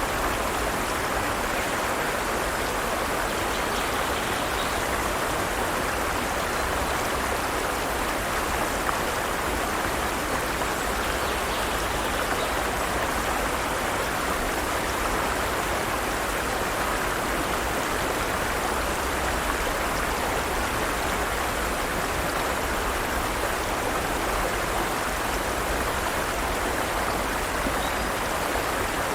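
Forest stream flowing steadily over rocks, a continuous even rush of running water.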